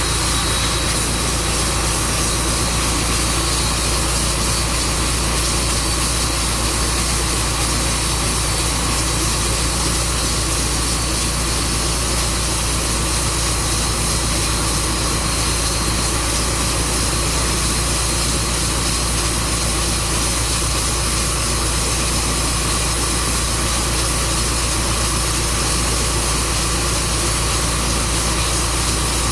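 Tru Cut portable band sawmill running steadily at a constant pitch, its engine driving the blade through a walnut log.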